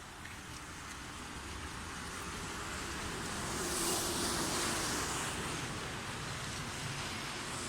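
A road vehicle passing by: a rushing noise swells to its loudest about halfway through, with a faint hum at the peak, and then fades.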